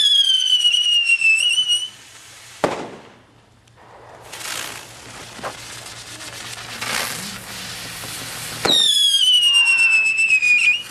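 Fireworks: a whistling firework sounds a high whistle that falls slowly in pitch for about two seconds, followed by a single sharp bang, a few seconds of crackling and hissing, and a second falling whistle near the end.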